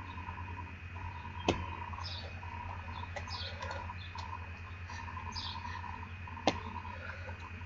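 Birds chirping in short, repeated, high falling phrases over a steady low hum. Two sharp knocks stand out, about a second and a half in and again five seconds later.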